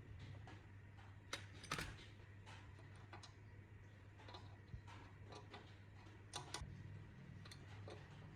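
Faint scattered clicks and taps, about a dozen spread irregularly, the loudest pair a little over a second in and another pair past the middle, over a low steady hum.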